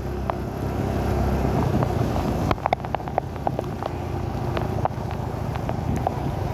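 A vehicle engine running steadily under a noisy haze, with scattered sharp ticks and knocks. The sound shifts abruptly about two and a half seconds in.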